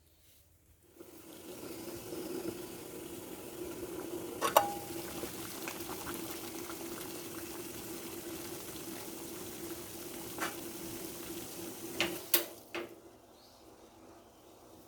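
Water running steadily into a container, starting about a second in and cutting off near the end, with a few sharp clinks of dishes or a pot.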